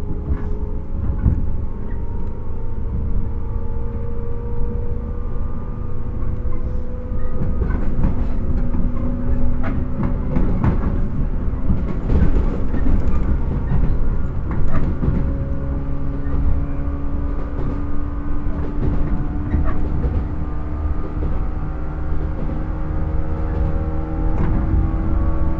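JR 115 series electric train's MT54 traction motors heard aboard the motor car while running. The motors whine in several tones that slowly climb in pitch as the train gains speed, over a steady rumble with rail-joint clicks.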